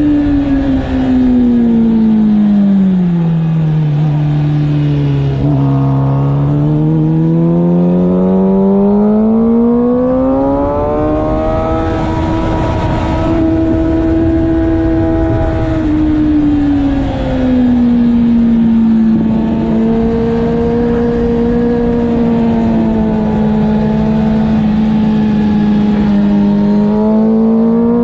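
Motorcycle engine at speed on a track lap, loud and continuous. Its pitch falls over the first few seconds as the bike slows, climbs back and holds, dips again about two-thirds of the way through, then rises near the end.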